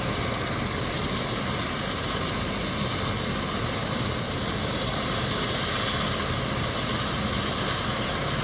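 Medical helicopter running on a hospital rooftop helipad: a steady turbine whine over a low rotor drone.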